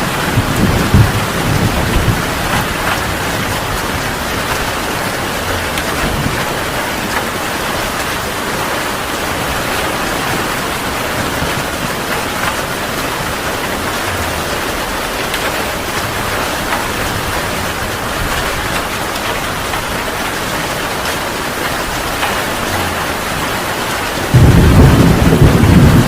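Heavy rain falling steadily in a thunderstorm. Thunder rumbles low at the start, and a loud thunderclap breaks in suddenly near the end.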